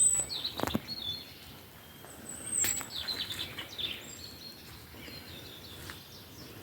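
Small birds chirping, with a string of short high calls and whistles, and a couple of faint clicks about a second and two and a half seconds in.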